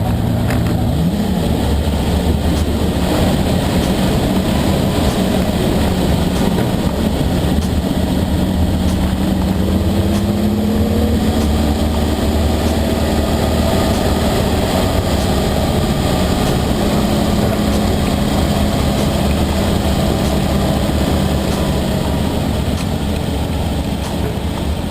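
1953 Ferrari 375 MM's V12 engine running as the car drives, loud and steady, its pitch drifting gently up and down with speed.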